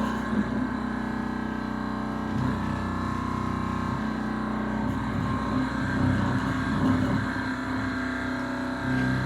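Thermoacoustic engine running, a steady low hum with a strong tone and its overtones.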